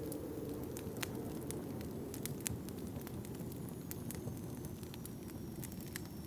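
Wood fire crackling with irregular sharp pops, over a steady low wind. A faint high whistle slowly falls in pitch from about halfway through.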